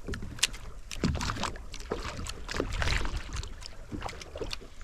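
Water slapping and splashing against the hull of a drifting boat in irregular splashes, over a low rumble of wind on the microphone.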